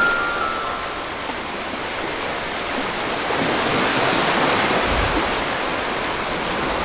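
Steady rush of flowing water, with a few soft held tones fading out in the first second.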